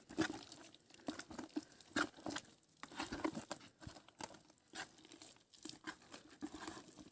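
Chicken pieces being mixed in a bowl with a wet marinade of egg and garlic-shallot paste: soft, irregular wet clicks and rustles.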